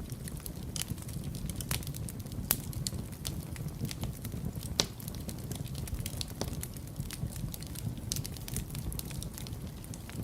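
Wood fire crackling in a fireplace: a steady low rumble of burning under frequent small snaps, with two sharper pops about two and a half and five seconds in.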